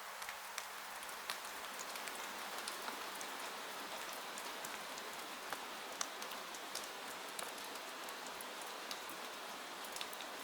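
Steady rain falling, an even hiss with many scattered sharp ticks of drops at irregular moments.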